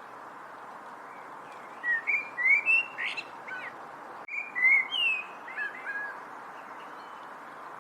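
A songbird singing two quick phrases of clear whistled notes that slide up and down, one right after the other, over a steady background hiss.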